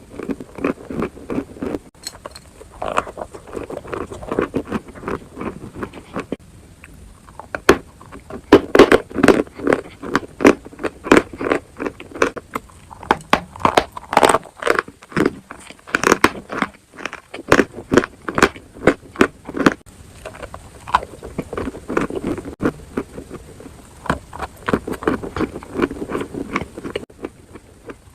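Close-miked biting and chewing of dry chalk and clay: a dense run of sharp, crackly crunches, broken by short lulls about six seconds in and again about seventeen seconds in.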